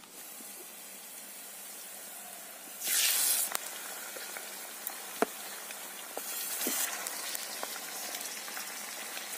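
Raw chicken pieces going into hot oil and onions in an iron kadai, sizzling steadily. The sizzle flares loudly as pieces hit the oil about three seconds in and again a little after six seconds, with a sharp click a little after five seconds.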